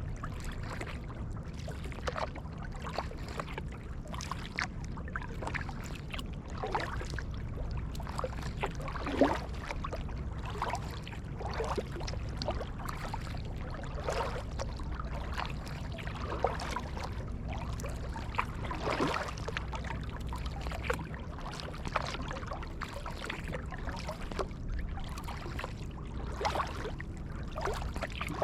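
Kayak paddle strokes in sea water: repeated splashes and drips every second or two as the blades dip in and pull, over a steady low rumble.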